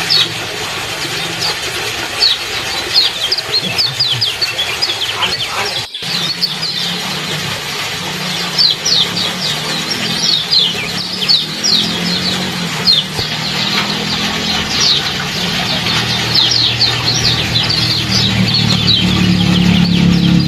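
Runs of quick, high 'ciak ciak' chirps from a small bird over a steady splashing trickle of water. A low hum builds up near the end.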